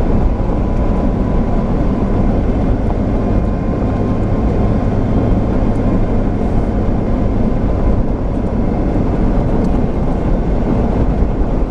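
A vehicle driving slowly on a back road: a steady, loud rumble of engine and road noise, heard from inside the cab.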